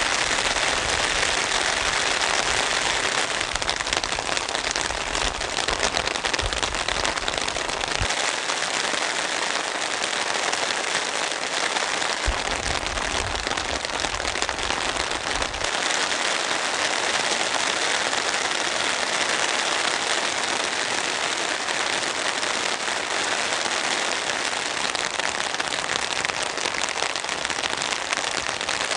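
Heavy rain falling steadily, a dense patter of drops, with a low rumble beneath it during the first eight seconds and again briefly midway.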